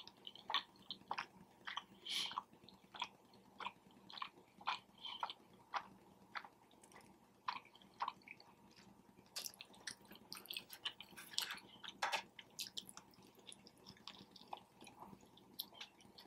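Close-miked chewing of a sub sandwich: a run of soft, wet mouth clicks and smacks at an irregular pace, thickest about two-thirds of the way through.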